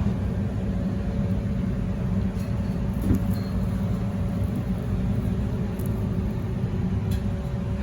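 Heater running with a steady low rumble and a constant hum.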